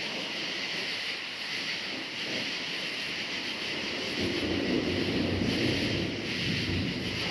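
A steady chorus of crickets chirring, with a low rolling rumble of distant thunder swelling about four seconds in and lasting a few seconds.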